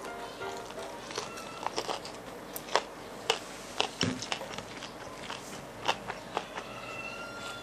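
Close-miked eating sounds: a mouthful of fried chicken and rice being chewed, with irregular sharp crunching clicks.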